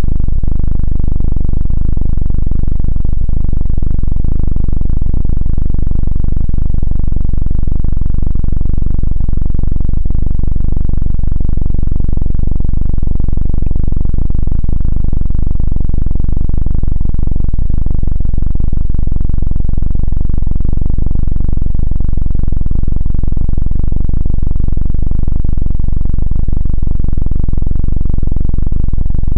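A loud, distorted helicopter-style 'dududu' drone: a deep, steady, rapid pulsing held unchanged throughout.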